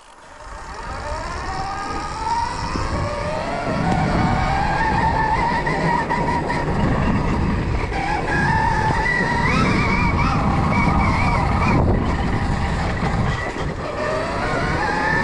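Stark Varg electric dirt bike's motor whining as it pulls away, rising in pitch and loudness over the first few seconds, then rising and falling with the throttle. A low rushing noise runs underneath.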